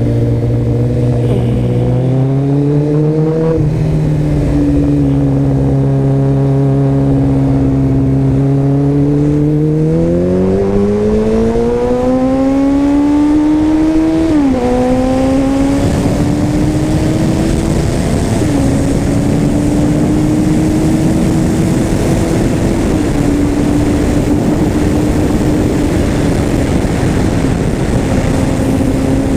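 Kawasaki ZX-14R's inline-four engine accelerating hard under full throttle, its pitch climbing and then dropping at each upshift. Wind rush grows louder from about halfway as speed builds.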